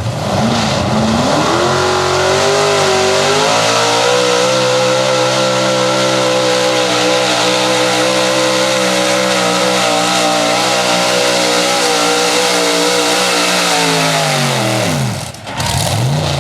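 1977 Dodge pulling truck's big-block V8 revving up over the first few seconds, then held at high revs under load through a full pull, its pitch wavering slightly. Near the end the revs fall away sharply as the pull finishes.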